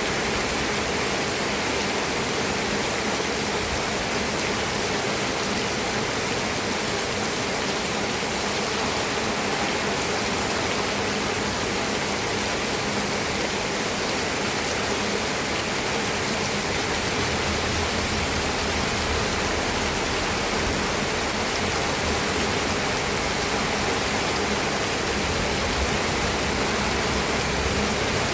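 Steady, heavy rainfall: an even, dense hiss of rain with no separate drops standing out. A low rumble builds underneath in the second half.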